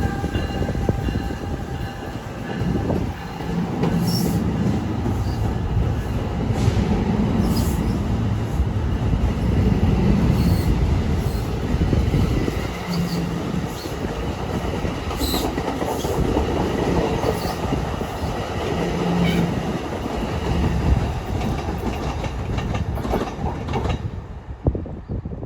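NJ Transit commuter train (ALP-46A electric locomotive hauling Multilevel coaches) rolling into a station at low speed: a steady rumble of wheels on rail with repeated clicks over rail joints and brief low hums.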